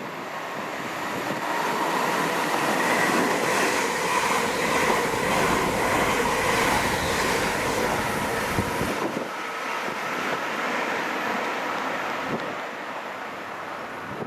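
A train passing through the station at speed without stopping. The rush of wheels and air builds over the first couple of seconds, stays loud with a steady whine for several seconds, then fades away.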